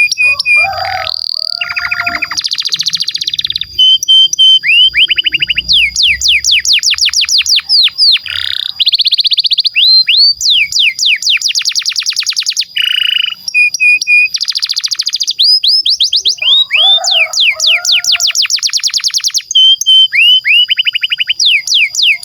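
Domestic canary singing a long song: phrase after phrase of fast trills and rolls, each a rapid run of repeated falling whistled notes, switching to a new phrase every second or two.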